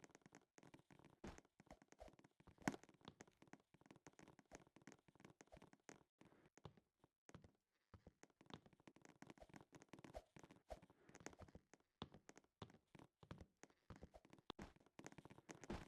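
Near silence with faint, scattered clicks and light handling noise. One sharper click comes about three seconds in.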